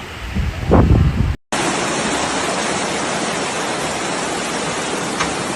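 Low gusts of wind buffeting the microphone for about a second, then after a brief cut a steady, loud rush of water.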